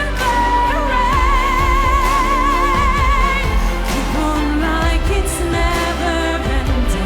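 Pop ballad with a female vocalist singing over band backing. About a second in she holds one long note with vibrato, then goes on singing.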